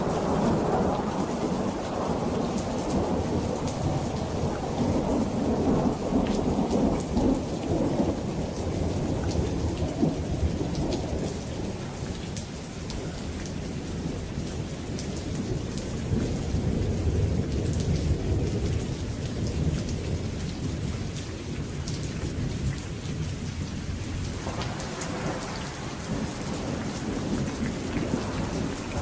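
Steady rain falling with rolling thunder. The deep rumble eases off around the middle and builds again near the end, over the continuous patter of raindrops.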